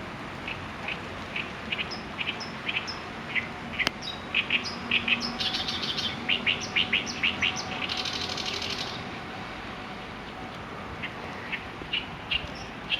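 Songbird singing a varied, intricate song of short high chirps. The phrases quicken into a rapid run midway, followed by a buzzy trill a little later, then thin out to scattered chirps.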